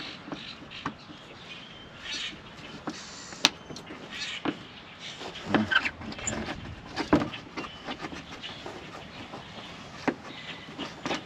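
Scattered clicks, knocks and scrapes of metal parts and hand tools being handled while truck front-suspension parts are lined up and refitted, with a sharp click about three seconds in and a busier run of knocks a little past the middle.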